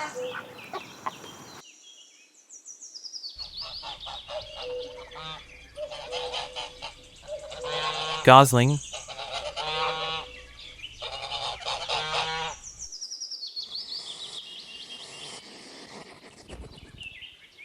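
Geese honking, a run of repeated calls with a brief gap between each, fading to fainter, higher calls near the end.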